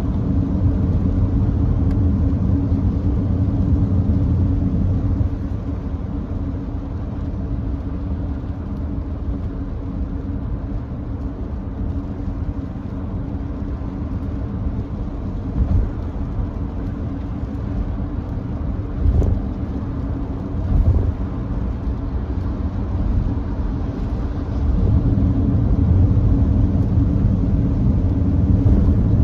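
Nissan Note e-POWER driving at steady speed on a wet expressway: a continuous low rumble of road and tyre noise. It eases a little in the middle, has a few brief bumps, and grows louder again near the end.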